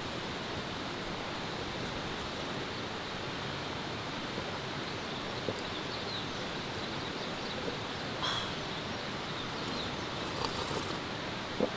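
Steady rain falling, an even hiss, with a few faint small knocks and clicks late on.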